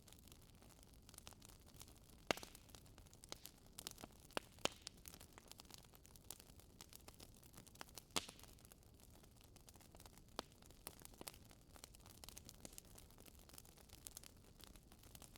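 Wood fire crackling in a fireplace: irregular small snaps and pops over a faint hiss, with a few louder pops, about two, four and a half, and eight seconds in.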